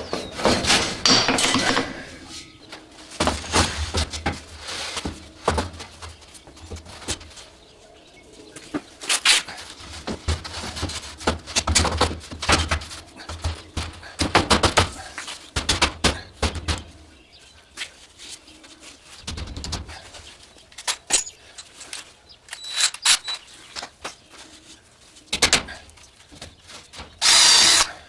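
Power drill running in short bursts, driving screws into wood, with knocks and handling clatter between the runs.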